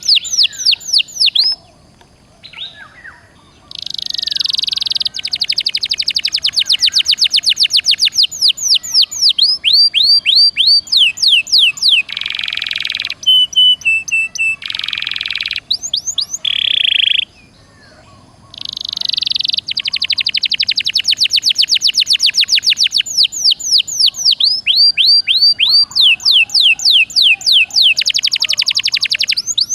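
Domestic canary singing energetically in long trills of rapidly repeated high chirps and buzzy rolls. The song breaks off briefly twice, about two seconds in and a little past the middle.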